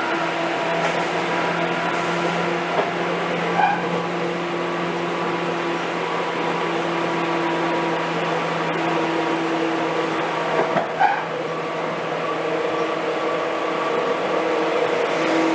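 Seibu 2000 series electric commuter train heard from inside the car, running at a steady speed with a steady hum and rolling noise. A short squeal comes about three and a half seconds in and again near eleven seconds.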